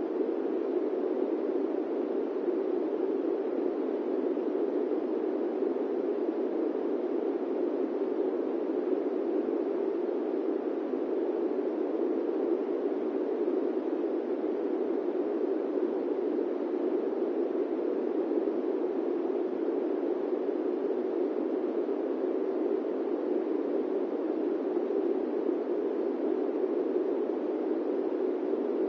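Steady airplane-cabin white noise: an even, unbroken rushing hiss centred in the low-middle range, with no change in level or pitch.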